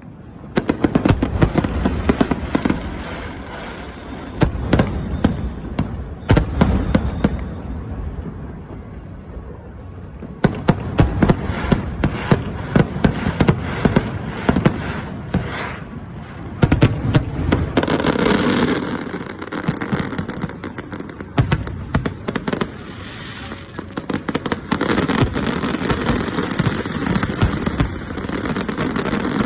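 Aerial fireworks display going off: rapid volleys of sharp bangs and crackles that come in waves, several seconds apart, each swelling and easing off.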